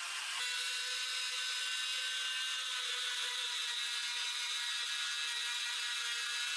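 A machine tool or power tool running steadily with a high, even whir made of several fixed tones. Its sound changes abruptly about half a second in, then holds steady.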